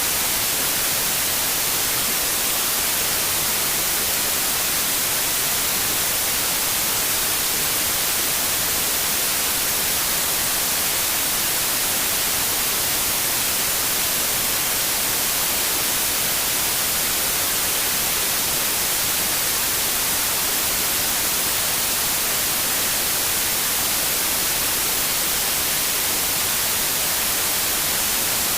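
Steady white noise: an even, unchanging hiss strongest in the high frequencies.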